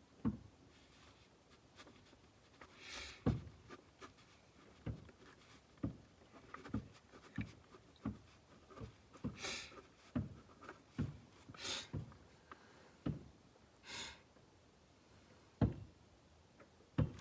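Scattered light knocks and clicks in a small, enclosed space, with a few brief rustles, as of someone handling things.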